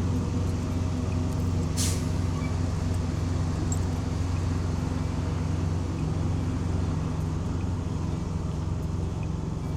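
Freightliner box truck's diesel engine running steadily at low speed while the truck pulls up, with one short hiss of air brakes just under two seconds in.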